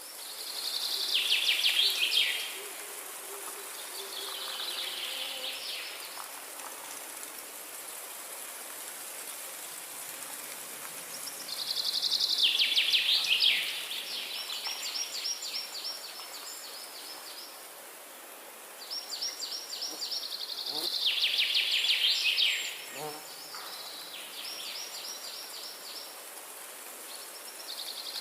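A songbird singing repeatedly, about seven short phrases of rapid notes that slide downward, some drawn out into fast trills, with pauses of a few seconds between them. A steady high hiss runs underneath.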